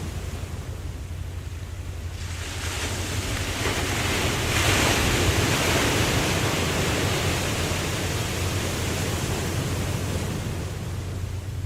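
Ocean wave washing in. The surf builds from about two seconds in, peaks around the middle and slowly fades, over a steady low rumble.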